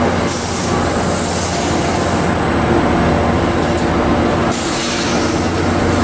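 NJ Transit passenger coaches rolling past close by: a loud, steady rumble of steel wheels on the rails, with a hiss that comes and goes.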